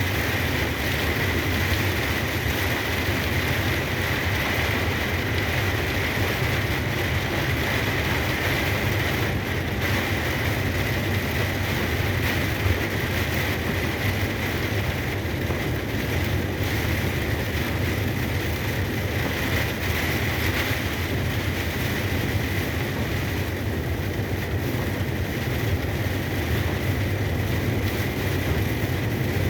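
Steady drone inside a moving truck's cab: low engine and road noise, with an even hiss of tyres on a wet road and rain.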